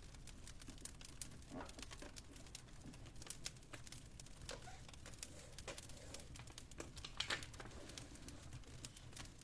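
Wood fire crackling in a fireplace: irregular small snaps and pops, with a louder pop about seven seconds in, over a low steady hum.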